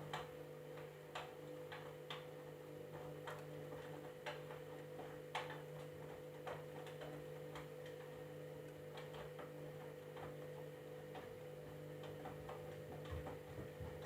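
Candy washing machine running mid-cycle: a steady motor hum with irregular sharp clicks and taps, about one or two a second.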